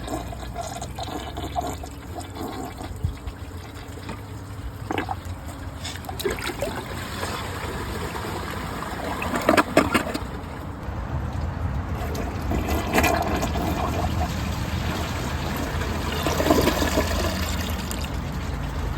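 Water running and trickling in a Kohler Wellworth toilet as it refills after a flush, with a few brief knocks along the way.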